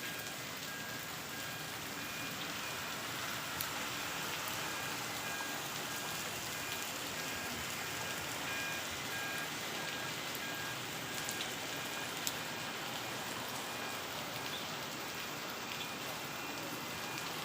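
Rain falling steadily on surfaces, with a few isolated sharp ticks.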